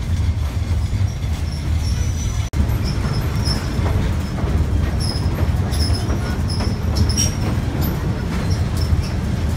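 Tourist passenger train rolling along the track on a curve, heard from an open-sided car: a steady low rumble of wheels on rail with short high-pitched wheel squeals. The sound drops out for an instant about two and a half seconds in.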